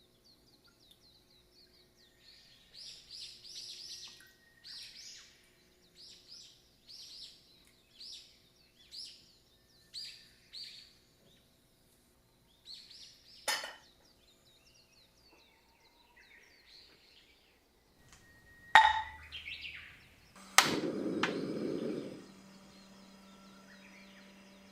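Birds chirping in a run of short, high calls about once a second. Then come a sharp click, a knock with a brief clatter, and a louder hit, after which a steady low hum sets in.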